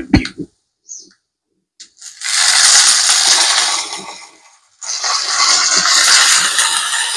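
Freshly washed, wet curry leaves crackling and spitting in hot oil in a frying pan, in two long spells: from about two seconds in, then after a short break from about five seconds in. A couple of sharp clicks come at the very start.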